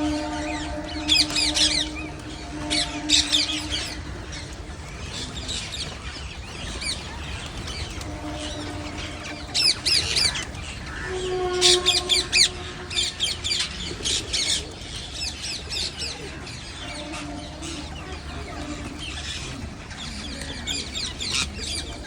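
Many parrots squawking in short, shrill bursts that come in clusters. A held low tone comes and goes underneath.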